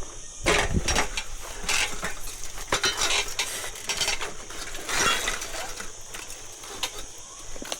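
Irregular crackling, snapping and clinking of cut branches, twigs and leaves being handled, with a steady high hiss underneath.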